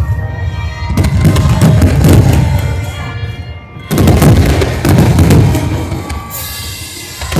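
Fireworks booming and crackling in two dense volleys with a short lull between, over loud music.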